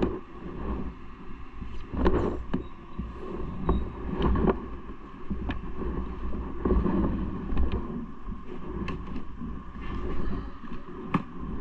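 Ride noise from a bike on the move: a steady low rumble of wind and road on the camera microphone, with scattered short rattles and knocks.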